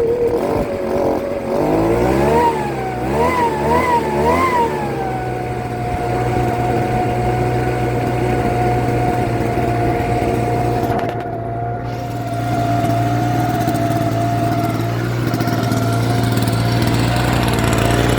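Bu-Ko 52cc two-stroke petrol backpack leaf blower engine running: revved up and down three times in quick succession, then settling to a steady idle. It runs now that the severed fuel pickup line has been replaced.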